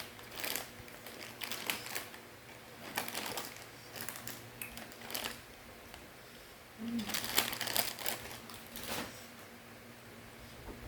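Crunchy fried macaroni snack being chewed close to the microphone: bursts of sharp, crackly crunches every second or so, busiest between about seven and nine seconds in.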